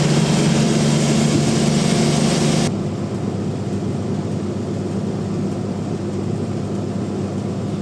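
Band sawmill running with a steady machine hum. About two and a half seconds in, the sound drops abruptly to a quieter, duller running noise.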